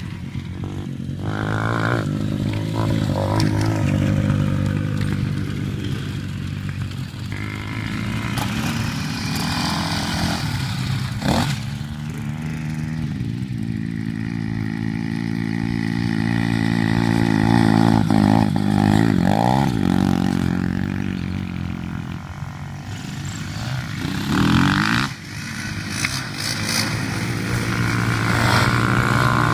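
Motocross bike engines running and revving, their pitch repeatedly rising and falling as the riders accelerate and back off, with more than one bike heard at times.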